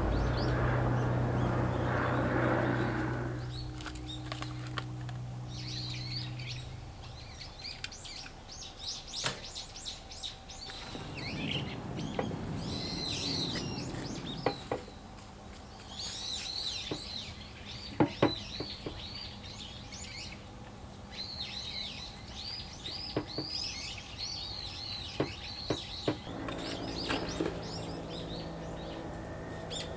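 Small birds chirping and twittering in many short, repeated calls, with occasional light knocks and rustles as potted plants and soil are handled in a planter. Background music fades out in the first few seconds.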